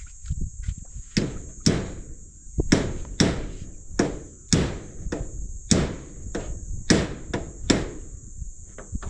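Hammer blows, about a dozen sharp strikes at roughly two a second, over a steady high chirring of crickets.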